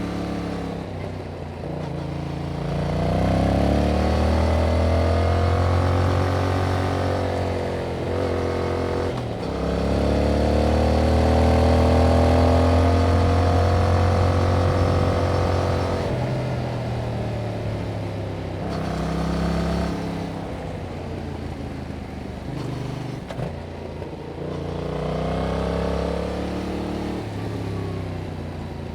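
Yamaha MT-07's 689 cc parallel-twin engine on its stock exhaust, heard from the rider's seat, pulling hard with the pitch climbing, a short break for an upshift about a third of the way in, then climbing again. About halfway through the throttle comes off and the revs settle lower, then the engine pulls up once more and backs off near the end.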